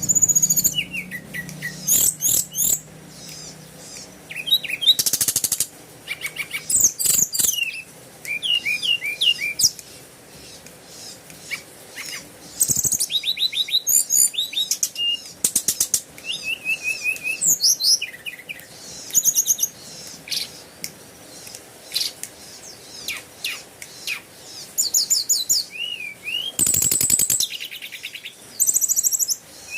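Birds chirping and calling in quick, varied trills and sliding whistles, with short pauses between phrases and a few brief rustling bursts.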